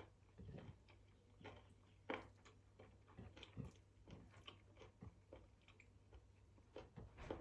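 A person chewing and eating, close to the microphone: faint, irregular chewing and mouth sounds with a few sharper clicks.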